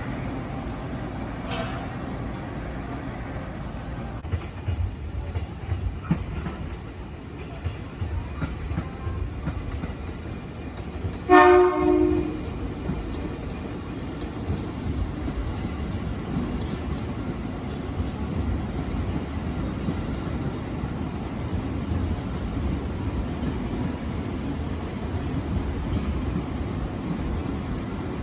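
Ex-Chiyoda Line Tokyo Metro 6000-series electric commuter train moving through the station, with a low rumble and its wheels clicking over the rail joints. About eleven seconds in, it gives one short horn blast of about a second, the loudest sound here.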